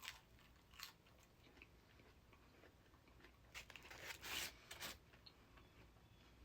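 A person biting and chewing crunchy food close to the microphone: a couple of crisp crunches near the start, then a denser run of crunching about halfway through.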